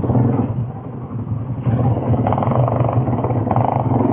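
Quad bike engine running steadily with a low hum, getting louder about one and a half seconds in.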